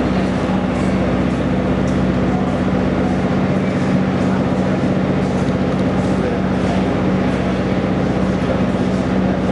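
Steady low mechanical hum, typical of a railway vehicle standing with its equipment running, under the chatter of a crowd.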